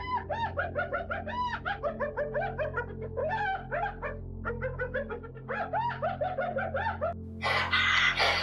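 Animal calling in rapid clusters of short, arched chirps, several a second, over a steady low music bed. About seven seconds in, a louder, harsher call cuts in.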